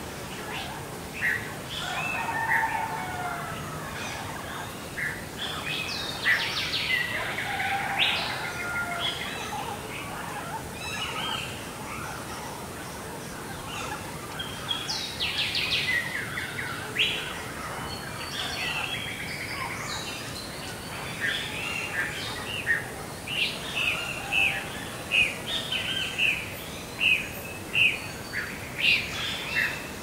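Morning bird chorus: several wild birds chirping and singing over a faint background hiss, with bursts of trilling song about a quarter and half of the way in. In the last third, one bird repeats a short loud chirp about once a second.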